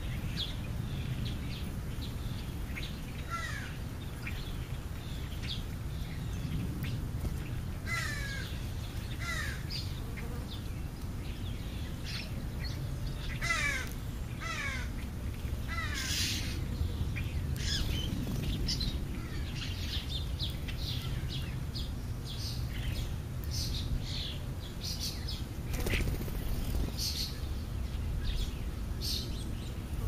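Wild birds calling: many short, quick chirps in small series, with a few louder, noisier calls about halfway through and again near the end, over a steady low background rumble.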